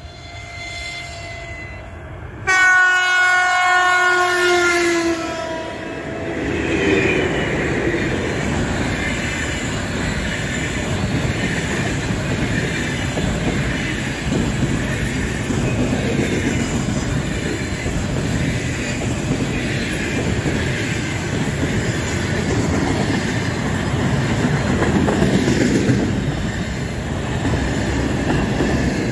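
Horn of a 2ES5K 'Ermak' electric locomotive pair: a fainter tone in the first couple of seconds, then a loud blast of about three and a half seconds that dips in pitch as it ends. The container train's wagons then roll past with a steady rumble and clickety-clack of the wheels.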